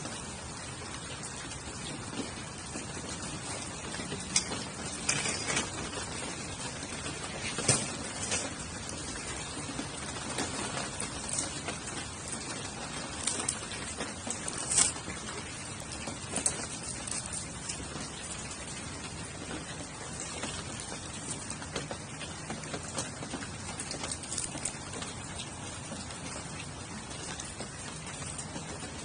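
Steady rain hiss with scattered sharp pops and crackles from a damp wood campfire burning in a fire-pit stand, a few louder pops standing out now and then.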